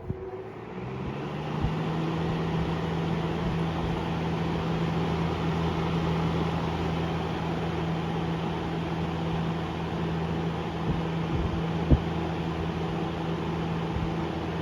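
Vintage Sears Kenmore 758.80840 two-speed box fan switched on at high speed: the motor spins up over the first couple of seconds, then runs steadily with a motor hum under the rush of moving air. A single sharp click about twelve seconds in.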